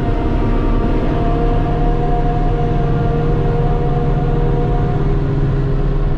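Claas 695 forage harvester running steadily in corn under a loud engine, with a high steady whine that fades about five seconds in.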